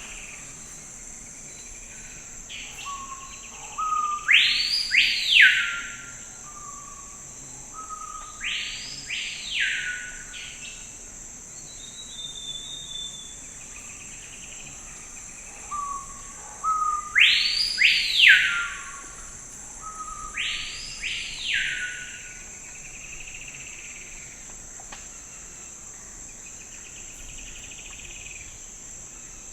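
A steady high insect drone, with a bird singing loud, arching whistled phrases that sweep up and back down, in two groups of two phrases about ten seconds apart.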